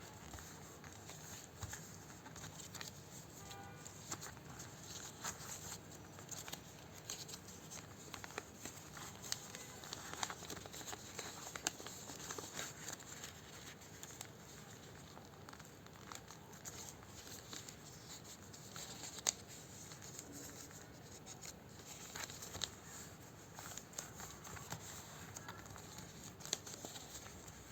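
Paper rustling and crinkling as it is folded and creased by hand, with scattered soft ticks and taps over a steady faint hiss.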